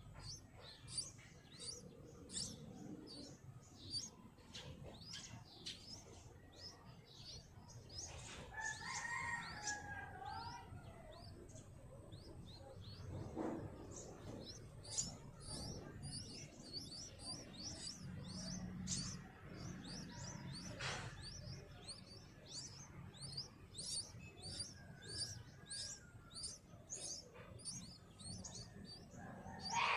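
Birds chirping: a fast, steady run of short, high-pitched chirps, with a lower, falling warbled call twice.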